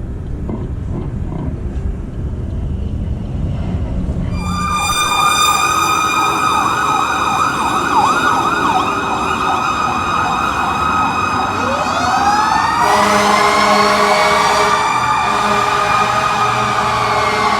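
Emergency vehicle sirens passing over low traffic rumble. About four seconds in an electronic siren starts in a fast yelp. About twelve seconds in a second siren slowly winds up to a high wail over it.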